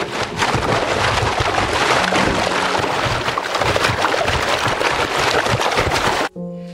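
Loud, churning rush of water, a dense splashing and bubbling noise that cuts off suddenly near the end.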